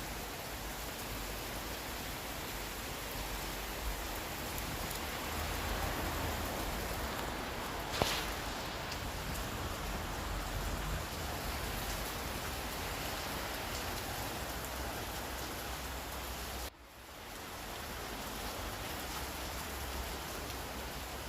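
Steady rain falling, an even hiss with one sharp drop-like tick about eight seconds in. Near the end the sound cuts out abruptly and swells back within a second.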